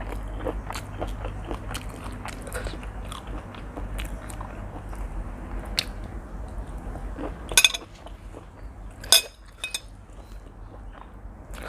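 Close-miked chewing of spicy seafood instant noodles, with a stream of small wet mouth clicks and two sharper, louder clicks about seven and a half and nine seconds in.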